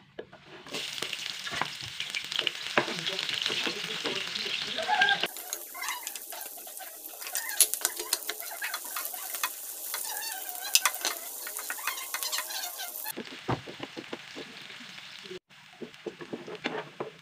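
Sliced shallots, garlic and chilli sizzling and crackling in hot cooking oil in a frying pan while being stirred. The sizzle starts about a second in and drops away after about thirteen seconds, leaving scattered clicks of metal utensils.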